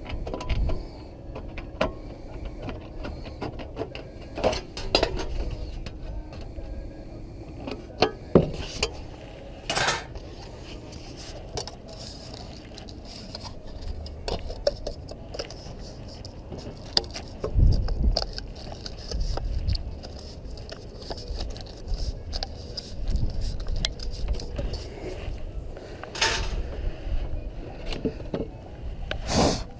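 Hand work with metal chimney flashing and tools: scattered light clinks and knocks, with a few louder sharp knocks.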